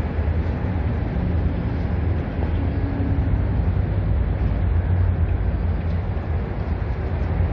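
Steady rumble of road traffic passing nearby.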